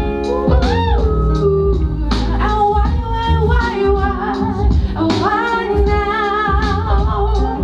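A live band plays with a singer's melodic voice over bass and a steady drum beat.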